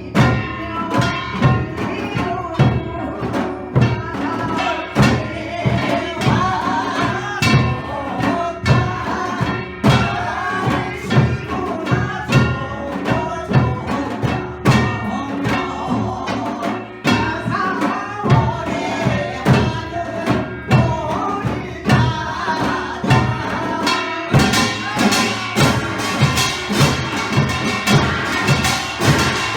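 Samulnori ensemble playing Korean traditional percussion (janggu and buk drums with kkwaenggwari and jing gongs) in a steady rhythm under a sung melody. The playing grows denser and brighter near the end.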